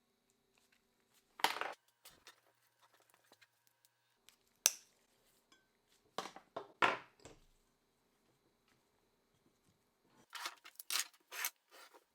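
Metal parts and tools being handled on a workbench: scattered clinks, knocks and scrapes, with a scrape about a second and a half in, a sharp clink near five seconds, a few knocks around six to seven seconds and a quick run of clinks near the end.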